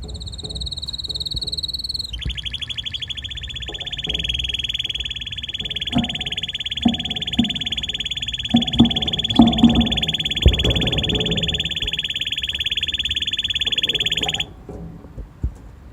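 Red canary singing: a high, steady whistled note for about two seconds, then one long, very rapid rolling trill of some twelve seconds that cuts off suddenly near the end. A few dull knocks sound beneath it.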